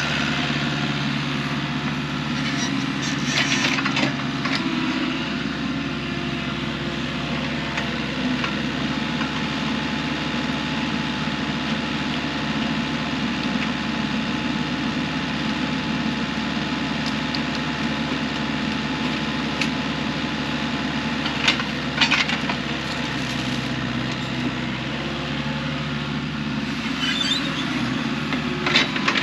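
An engine running steadily at a constant speed, with wood cracking and knocking a few times: about three seconds in, around twenty-two seconds in, and near the end.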